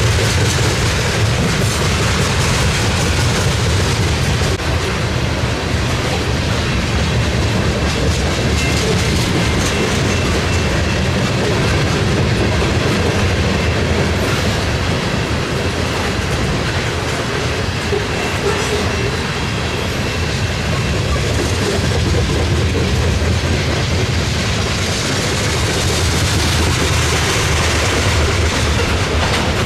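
Freight train cars rolling past at close range, their wheels clacking steadily over the rail joints, with a faint high wheel squeal now and then.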